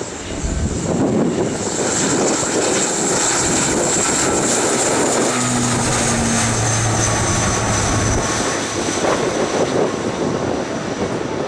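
Aircraft engines running close by, loud and steady, with a high whine that falls slightly in pitch as the aircraft passes.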